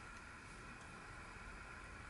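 Near silence: steady faint hiss of room tone.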